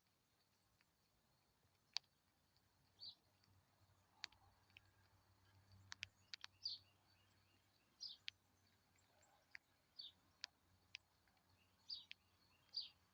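Faint, short, high bird chirps, about one every second or two, with sharp, irregular clicks in between.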